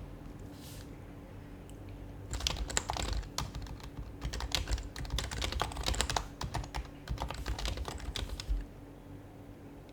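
Typing on an HHKB Professional Hybrid Type-S keyboard with its silenced Topre switches: a quick run of keystrokes starts about two seconds in and stops shortly before the end.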